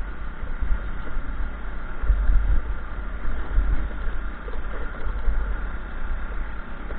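A vehicle running steadily, under a strong, uneven low rumble like wind buffeting the microphone.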